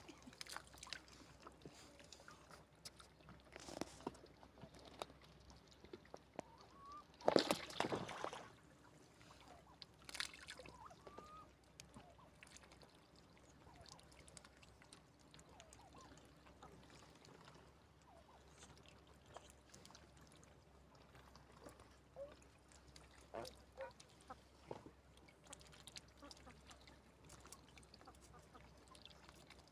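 Domestic fowl giving short, scattered calls, with light rustling and clicks and one brief louder rustle about a quarter of the way in.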